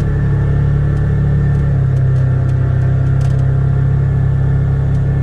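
Polaris Ranger Crew 1000 XP side-by-side's engine running steadily under way, a constant low drone.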